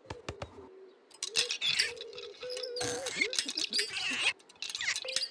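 Playful cartoon sound effects: a few clicks at the start, then a run of squeaky chirps and whistling pitch glides over a steady humming tone.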